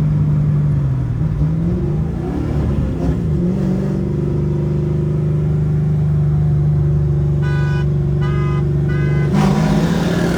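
A car engine drones at a steady pitch while driving; the pitch dips and wavers for a moment about two seconds in, then holds steady. Three short beeps sound near the end.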